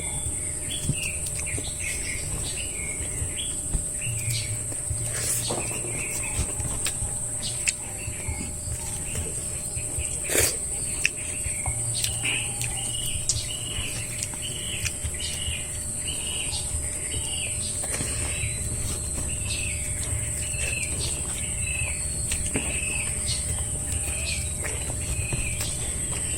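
A bird chirping over and over, short calls about one a second, over a steady high insect drone. A few sharp clicks sound now and then.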